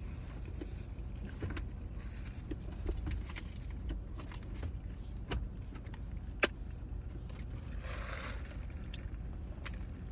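Small clicks and rustles of someone eating fast food, over the steady low rumble of a car interior. One sharp click comes about six seconds in.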